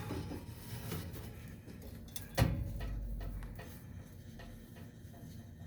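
A few scattered clicks and knocks of handling, with one sharper knock about two and a half seconds in followed by a short low rumble.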